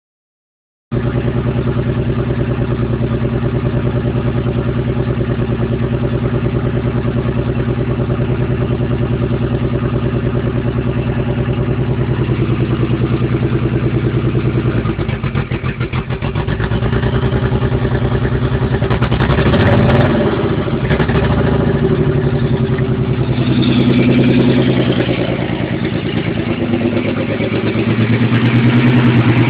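Nissan 300ZX's V6 engine running roughly, misfiring on only four or five of its six cylinders; the uploader blames bad fuel injectors and old injector connector clips. The engine note shifts briefly about twenty seconds in.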